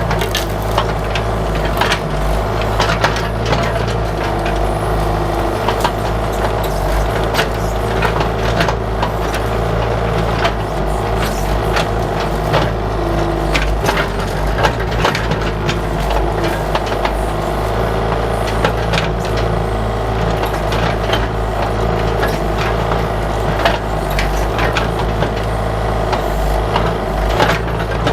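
Bobcat 331 mini excavator's diesel engine running steadily under hydraulic work, with scattered sharp knocks and cracks as the bucket digs and breaks through dirt and bush roots.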